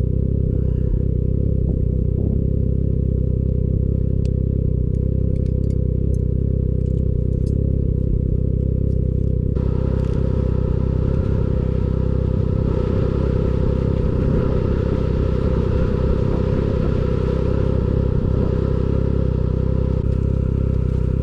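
Snowmobile engine running steadily under way, with a few light clatters. About ten seconds in, the sound turns suddenly brighter and noisier.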